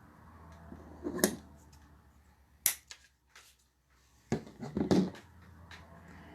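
A few sharp clicks and knocks, about four in all, from craft tools and materials being handled and set down on a work table.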